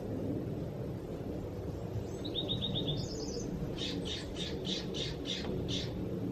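A songbird singing: a quick trill of short high notes about two seconds in, then a run of about eight loud chirps at roughly four a second, over a steady low background rumble.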